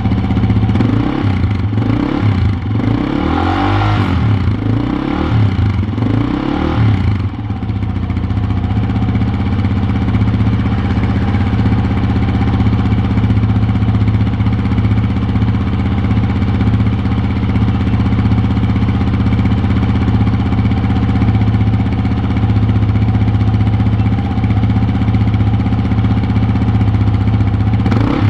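Yamaha Serow 250's single-cylinder four-stroke engine running through a newly fitted BEAMS Power Trek aftermarket muffler. It is revved up and down several times in the first seven seconds or so, then idles steadily.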